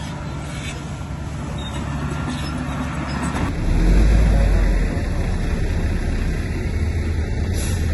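Heavy diesel earthmoving machinery running steadily, its low engine sound growing louder for about a second around the middle, then settling back.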